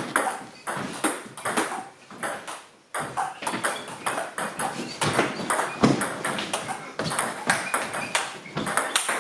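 Table tennis ball clicking off bats and table during rallies: a quick run of sharp pings, with a short break just before three seconds in.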